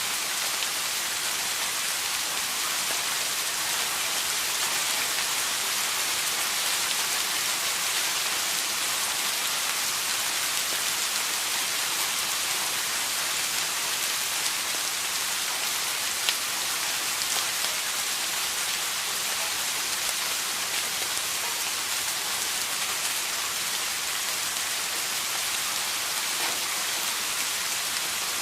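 Steady rain falling, an even hiss of many drops with an occasional single louder drop tick, one a little sharper about halfway through.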